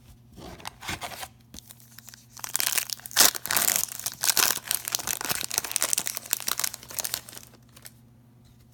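A trading card pack wrapper being torn open and crinkled by hand: a few short crackles at first, then a long stretch of tearing and crumpling that is loudest a few seconds in.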